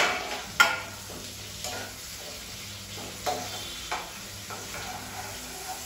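Sliced onion and curry leaves sizzling in hot oil in a wok, stirred with a spatula that knocks and scrapes against the pan now and then. The sharpest knock comes less than a second in.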